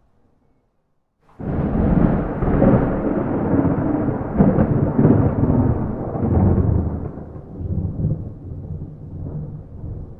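Thunder: after a second or so of silence a peal breaks in suddenly, then rumbles deep and loud for several seconds before slowly dying away.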